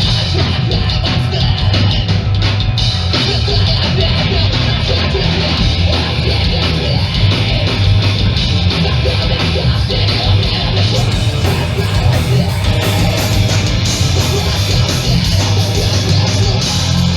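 A hardcore punk band playing live and loud: distorted electric guitars, bass and drums in a dense, steady wall of sound. About two-thirds of the way through, the sound turns brighter and harsher.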